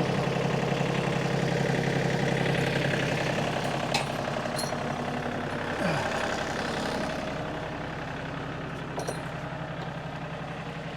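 Engine idling steadily, gradually getting quieter, with a few sharp knocks over it.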